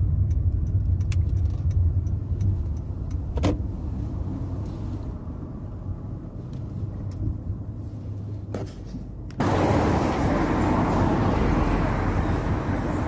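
Low rumble of a car moving, heard from inside the cabin, with a couple of sharp clicks. About nine seconds in, a louder, even rushing noise cuts in suddenly and carries on.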